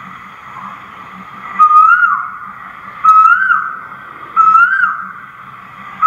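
A bird whistling the same short call over and over, about every second and a half: each note holds, rises, then drops away. Three calls sound, the first about a second and a half in, and a fourth starts at the very end, over a faint steady background.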